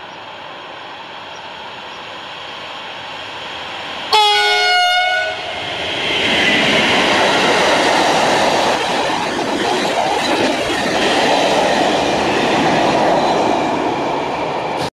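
A freight train sounds a horn blast of about a second, about four seconds in. Then its long string of tank wagons runs past close by, a loud continuous rush and rattle of wheels on the rails.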